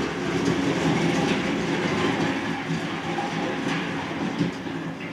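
A heavy vehicle rolling over rough ground, with a steady rumble and continuous metal rattling and clattering.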